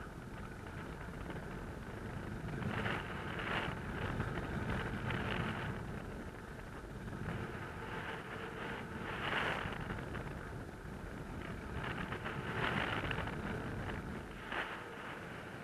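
Wind rushing over the microphone during paraglider flight: a steady low rumble with gusts that swell briefly half a dozen times.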